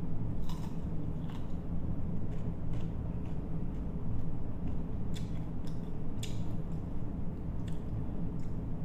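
Close-up chewing of crisp green mango slices: scattered sharp crunching clicks, irregular, roughly one a second, over a steady low hum.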